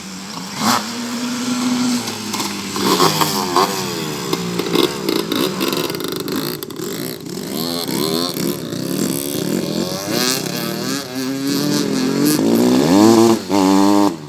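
Several motocross bikes revving and passing, their engine pitch climbing and dropping over and over. The loudest rev climbs near the end.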